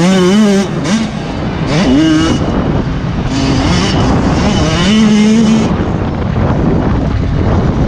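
Motocross motorcycle engines revving in repeated bursts, their pitch climbing and dropping several times, then settling into a rougher, more even engine noise for the last couple of seconds.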